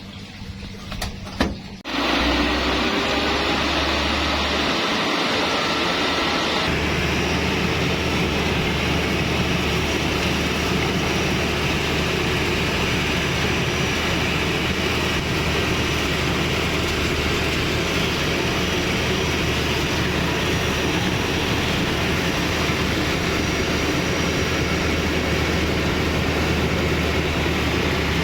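Bimo Plus rice harvesting machine, engine and threshing works running. The sound comes in abruptly about two seconds in, after a few clicks, and steps up about six and a half seconds in, then runs on steadily as a loud hum with a noisy rush over it.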